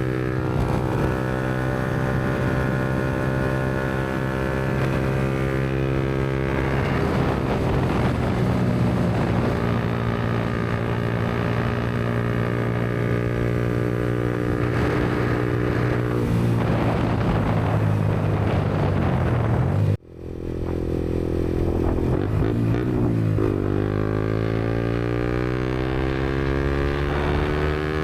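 Yamaha MT-125's single-cylinder four-stroke engine through a Black Widow aftermarket exhaust, running at steady revs while riding. The revs fall a few seconds before a sudden brief drop in the sound about twenty seconds in, then climb steadily as the bike accelerates near the end.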